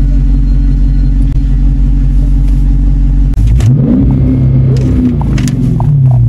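A car engine running with a steady low drone, then revving, its pitch rising and falling from about three and a half seconds in, with a few sharp clicks near the end.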